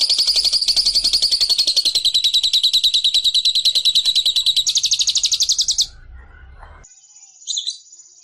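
Lovebird in 'ngekek': a long, very fast, unbroken chattering trill of high notes that stops abruptly about six seconds in. A single short chirp follows near the end.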